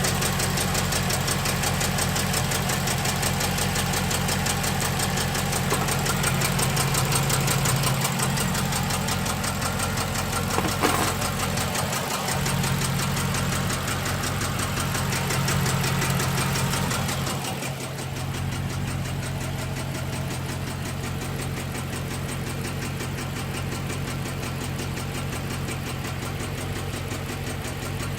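6.1-litre SRT8 HEMI V8 running rough with a ticking, the owner's sign of a random cylinder misfire. About two-thirds of the way in it becomes quieter and duller, and then runs on steadily.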